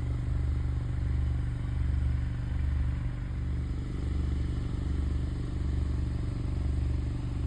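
Steady low motorcycle-style engine idle rumble, swelling gently about once a second.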